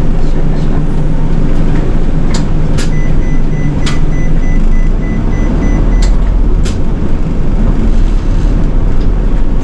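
City bus running along the road, heard from inside the cabin: a steady low engine and road rumble with a few sharp rattles or knocks. A faint high beep repeats for a few seconds in the middle.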